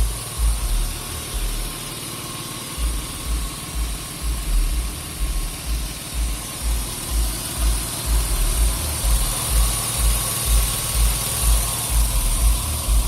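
2001 Nissan Maxima's 3.0-litre V6, fitted with an AEM cold-air intake and aftermarket exhaust, idling, with a low thump repeating about twice a second that pauses briefly about a second in.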